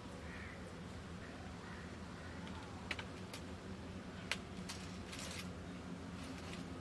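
A few light clicks and taps, scattered over a couple of seconds, over a steady low hum.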